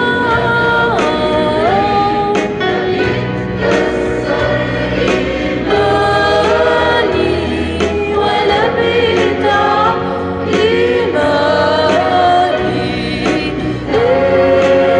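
Church choir singing a hymn over a steady instrumental accompaniment.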